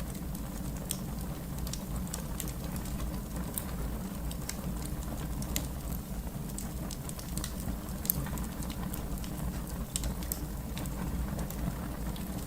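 Fire crackling: irregular sharp pops and snaps scattered over a steady low rumble of the flames.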